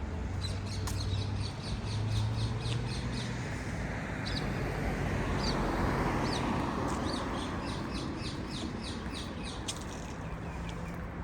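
Birds chirping in quick repeated series, about three or four chirps a second, over street traffic. A vehicle passes and swells loudest about six seconds in.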